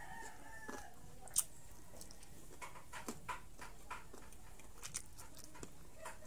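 Chewing on deep-fried crispy pork strips, with a few short, sharp crunches scattered through, the sharpest about a second and a half in. A brief animal call sounds in the background during the first second.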